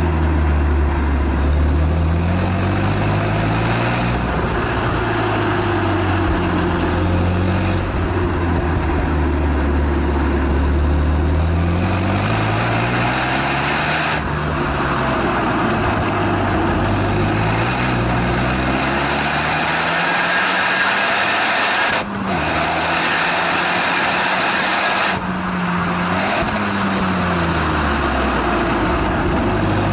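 Renault Mégane Estate GT220's turbocharged four-cylinder exhaust, heard from the rear of the car at circuit speed. The engine pitch climbs and falls again and again as the car accelerates, shifts and lifts, with a brief drop in the sound about two-thirds of the way through.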